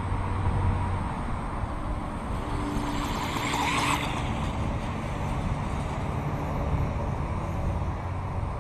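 Radio-controlled model motorcycle running, with a louder, higher-pitched surge about two and a half seconds in that cuts off suddenly a second and a half later.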